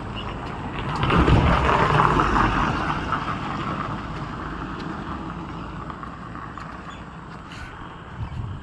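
A road vehicle passing by: a rushing noise that swells about a second in and fades away slowly over the next several seconds.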